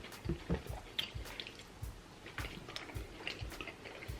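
Close-miked chewing of food: soft wet mouth sounds with irregular small smacks and clicks.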